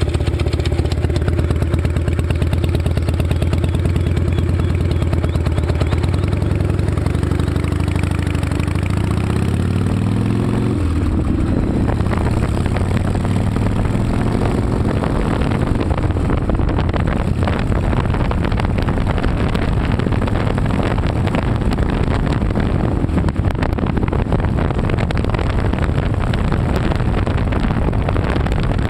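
Harley-Davidson Night Train's V-twin engine running through drag pipes: a steady idle, then the pitch rises about eight to ten seconds in, after which the sound turns rougher and noisier for the rest.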